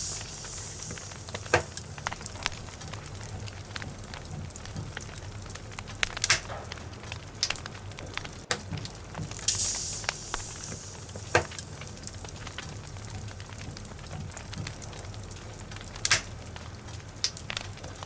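Log fire burning in a fireplace: a steady low rumble of flames with sharp crackles and pops every few seconds, and a brief hissing burst about ten seconds in.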